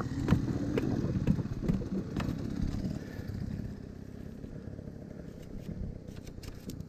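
Dirt bike engine running, loudest in the first three seconds and then fading away, with a few sharp clicks over it.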